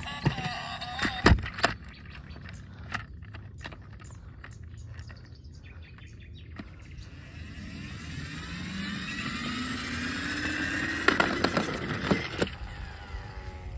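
A few sharp clicks, then a motor speeding up with a steady rising whine over several seconds, followed by another run of clicks.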